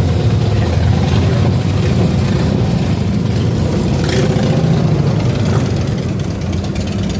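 Car engine running steadily, with a low, even note.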